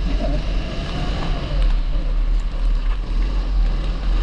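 A 270cc kart engine running, heard onboard, with a heavy low rumble of wind on the microphone and a level that rises and falls slightly.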